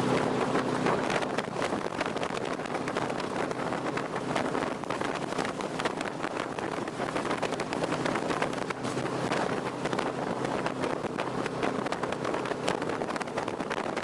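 Jet boat's engine humming under a rush of wind buffeting the microphone as the boat runs along the river. The engine's hum is clearest in the first few seconds, then sinks under the steady wind noise.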